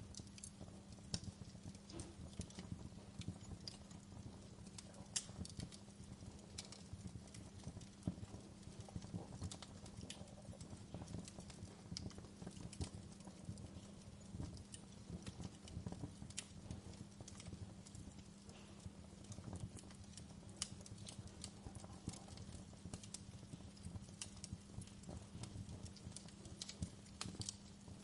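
Burning logs in a fireplace crackling and popping, irregular sharp snaps scattered throughout over a faint, steady low hum.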